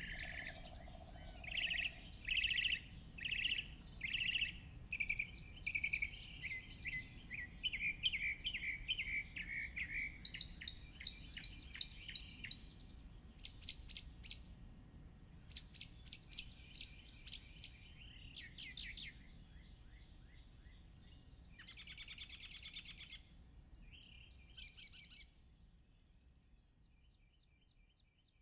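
Garden songbirds singing: series of repeated chirping notes, then rapid high trills and a long buzzy trill a little past the middle, over faint background noise. The birdsong thins out and fades near the end.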